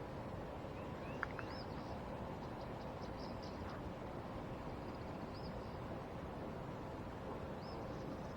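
Birds chirping faintly, a few short high calls scattered over a steady outdoor background hiss with a faint hum.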